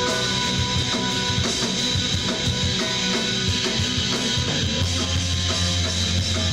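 Live rock band playing an instrumental passage: electric guitar and bass over a steady drum-kit beat, recorded from the room.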